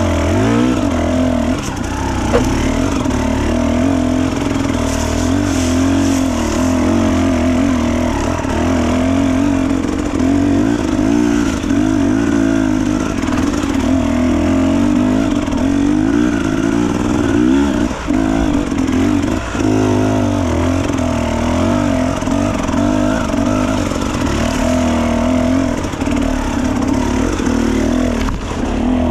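Off-road motorcycle engine running continuously while being ridden, its pitch wavering up and down with the throttle.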